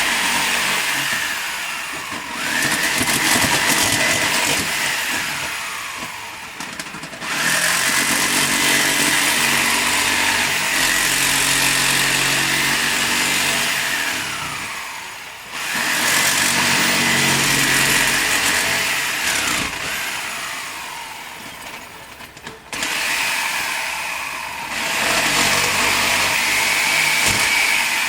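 A high-speed electric power tool repeatedly spins up, runs under load for a few seconds and winds down, about five times over.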